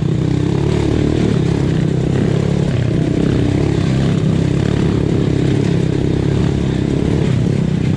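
Honda Win 125cc motorcycle engine running steadily, its pitch rising and falling slightly with the throttle.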